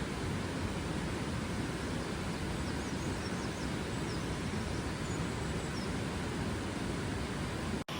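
Steady rushing outdoor background noise with a few faint, high bird chirps in the middle. The sound cuts out for an instant just before the end.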